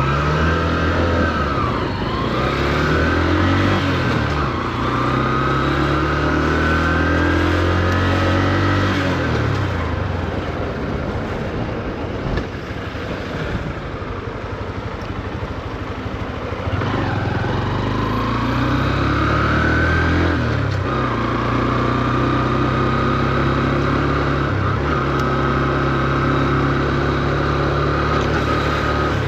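Single-cylinder engine of a new Honda CB125F motorcycle pulling away, rising in pitch through a few upshifts, kept to low revs for break-in. It eases off around ten seconds in, pulls away again about seventeen seconds in, and settles into a steady cruise.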